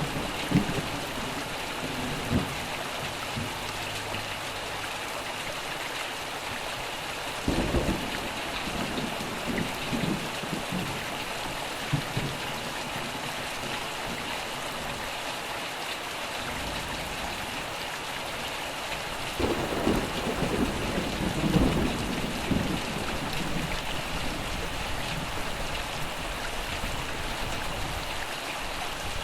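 Steady rain falling, an even hiss, with thunder rumbling twice: once about a quarter of the way in and again about two-thirds of the way in.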